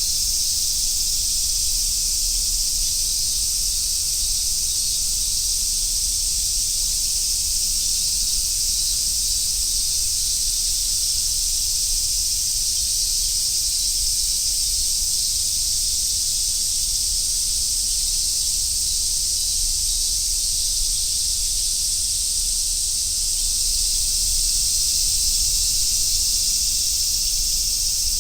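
A chorus of summer cicadas, a dense, steady high-pitched shrilling with no breaks, swelling slightly near the end.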